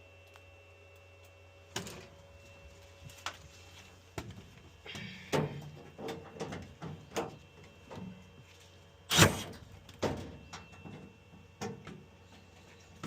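Irregular clunks, clicks and short scrapes of parts and tools being handled during boiler reassembly, with the loudest knock about nine seconds in, over a steady low hum.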